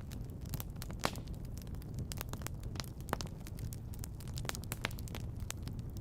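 Wood fire in a fireplace crackling, with irregular sharp pops and snaps over a steady low rumble; the loudest snaps come about one second and three seconds in.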